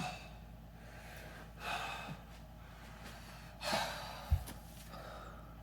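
A person breathing hard between exercise reps: three sharp, audible breaths about two seconds apart. A dull low thump comes just after the third breath.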